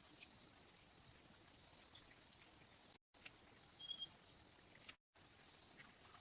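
Faint outdoor ambience: a steady high insect drone, with a single brief high chirp about four seconds in. The sound cuts out completely twice, for a moment each time.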